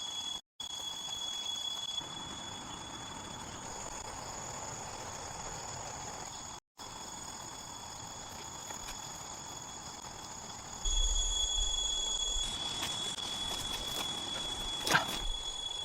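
Rainforest insects keeping up a steady, high-pitched drone. Twice the sound drops out for a moment. About two thirds of the way through, a low rumble joins in, and a single sharp click comes near the end.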